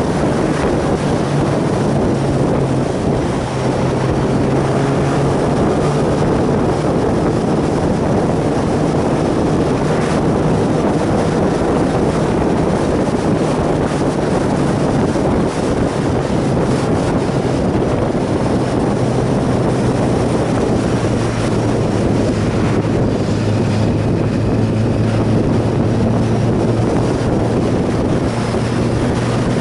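Motorcycle engine running at a steady pace under heavy wind noise on the microphone, its pitch shifting a little now and then.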